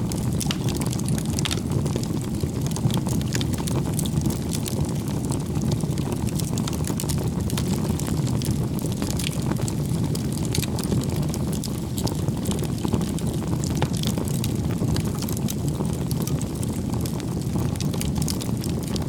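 Wood bonfire crackling: many irregular sharp pops and snaps over a steady low rumble of the burning fire.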